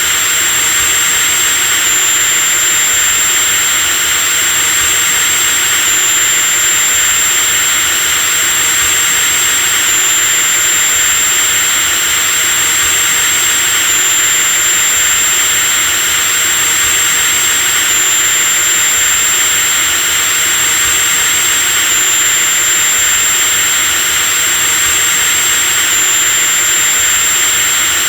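Electric drill running continuously with a high, steady whine over a loud motor hiss, the whine hitching slightly every four seconds.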